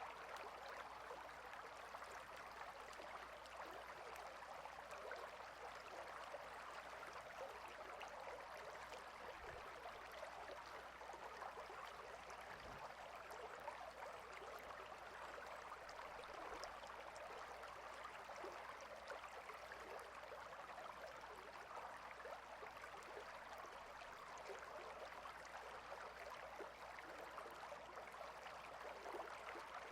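A small stream flowing and babbling steadily, a fine, even water trickle.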